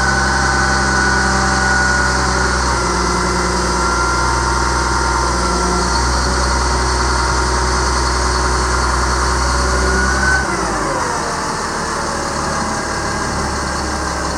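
Caterpillar C7 7.2 L inline-six turbo diesel held at a raised, steady speed while the hydraulic boom is worked. About ten seconds in it winds down to idle.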